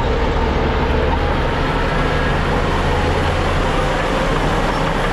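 Heavy diesel earthmoving machinery running steadily, a low engine drone that eases slightly about three and a half seconds in.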